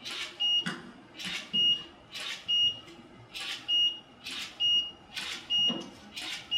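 Digital camera taking shot after shot: sharp shutter clicks, often in pairs, about one to two a second, with a short high beep after many of them.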